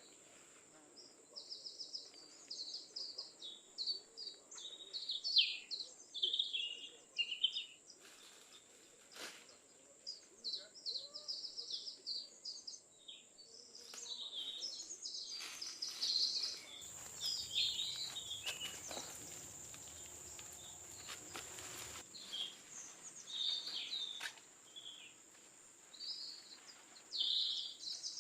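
Forest ambience: many quick bird chirps and trills over a steady high-pitched whine, with a soft rushing noise from about 16 to 22 seconds in.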